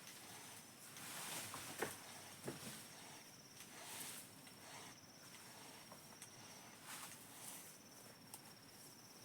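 An insect trilling in high, fast pulses that stop and start a few times, with a few light knocks and clicks; the chainsaw is not running.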